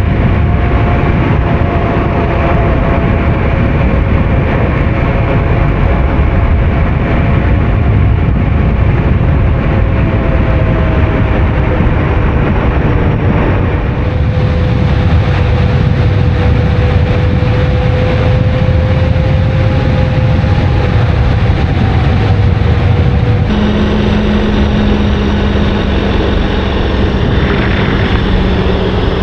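KTM 1290 Super Adventure R's V-twin engine running at a steady cruise, heard from on the bike under a heavy rushing noise, its note drifting only slightly in pitch. About 23 seconds in the sound changes abruptly to a lower, steadier engine tone.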